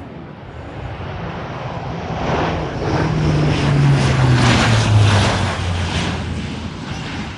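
C-130J Super Hercules turboprop flying past: its propeller drone swells to its loudest about five seconds in, dropping in pitch as it passes, then fades.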